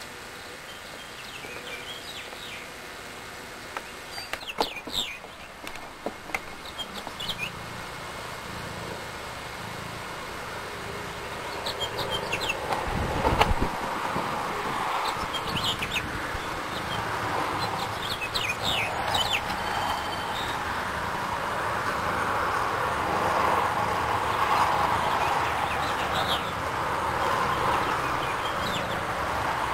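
Short, scattered bird chirps over a steady rushing background noise that grows louder about halfway through.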